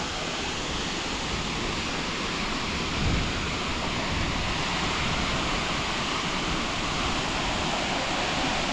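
Steady rush of falling water from the Ouzoud waterfall, with a brief low rumble about three seconds in.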